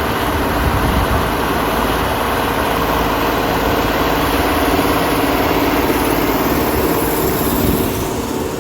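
T-150K tractor's diesel engine running steadily while pulling a plough, a dense, even drone that eases off slightly near the end.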